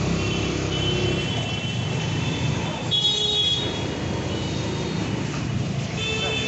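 Road traffic with a steady engine drone and vehicle horns honking three times, the loudest about three seconds in.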